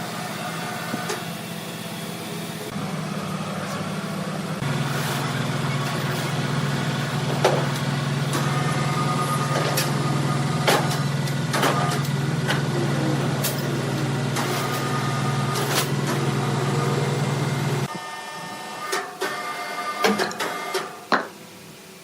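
Sawmill machinery running with a steady low hum and scattered sharp knocks. The machine cuts off about eighteen seconds in, leaving a few knocks and clatters.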